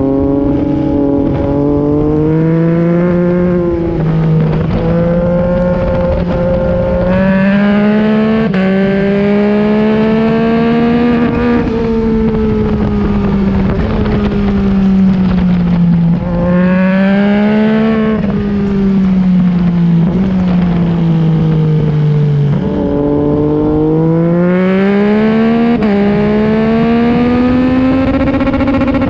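A 2021 Yamaha MT-09's 890 cc inline three-cylinder engine through an Akrapovic exhaust, heard onboard at track speed with wind noise. It revs up hard and then eases off several times over, as the bike accelerates down straights and slows for corners.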